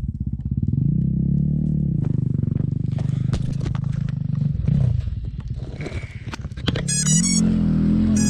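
Motocross dirt bike engine running under throttle as it is ridden. The revs climb about a second in and hold, drop off about five seconds in, then climb again near the end.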